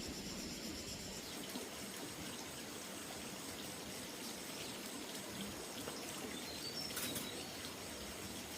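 Outdoor ambience: a steady hiss with insects buzzing that stop about a second in, then a few short bird chirps and a single sharp click about seven seconds in.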